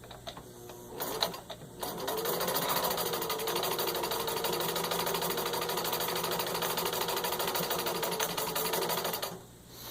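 Vintage Singer 15-91 sewing machine stitching through six layers of denim at fast speed. A few light clicks come first, then about two seconds in the motor comes up to speed with rapid, even needle strokes, runs steadily and winds down near the end.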